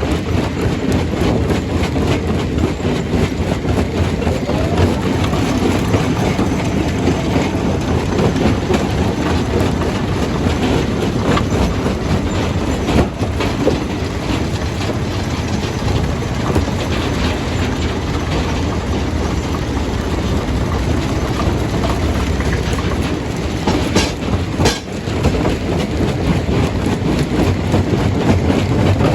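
Stone crusher, a jaw crusher, running under load: a heavy, steady rumble with constant clattering and knocking as rock is broken, briefly easing about four fifths of the way through.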